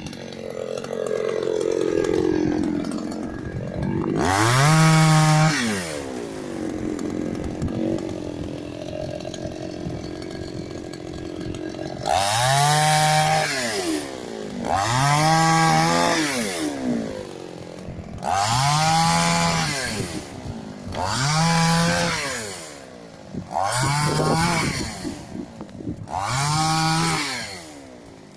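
Chainsaw cutting casuarina wood, its engine revved up and let back down again and again, idling between cuts. After one early cut, the revs come back in a steady run of cuts about every two and a half seconds.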